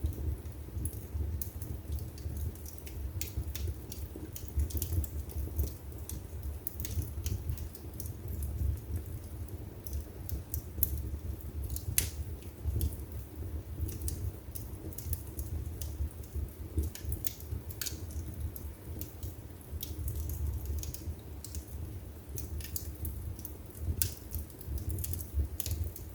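Wood fire burning in a fireplace, crackling with many irregular sharp pops over a low, steady rumble of flame.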